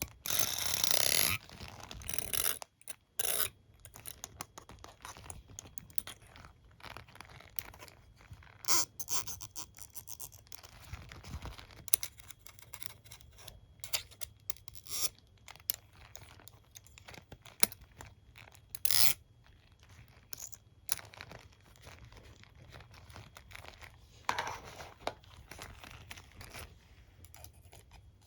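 Close-miked ASMR handling of a hairbrush and comb: irregular scratching, scraping and tapping, with many sharp clicks. A louder dense scratching comes in the first second or so.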